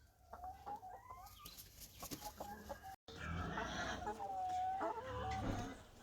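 Domestic hens clucking: a few short calls, then, after a brief dropout about halfway, louder clucking with one longer drawn-out call over a low rumble.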